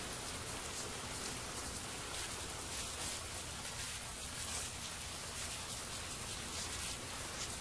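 Steady rain falling: an even hiss with many small drops pattering.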